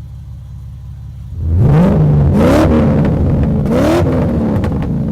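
Nissan 300ZX Z32's V6 engine idling, then blipped twice, its pitch rising and falling about a second and a half and three and a half seconds in.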